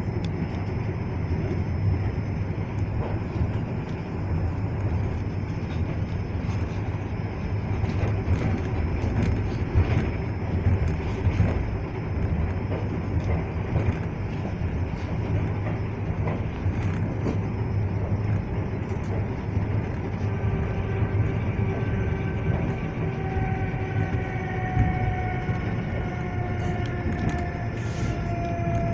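Suburban electric train running, heard from inside the carriage: a steady low rumble with scattered clicks and rattles from the wheels on the track. About two-thirds of the way through, a whine comes in and slowly falls in pitch.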